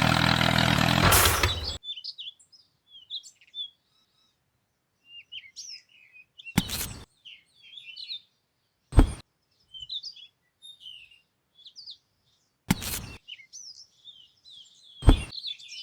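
Small birds chirping and tweeting in scattered short calls. A loud steady motor cuts off abruptly about two seconds in. Four short, loud hits sound at intervals of two to four seconds.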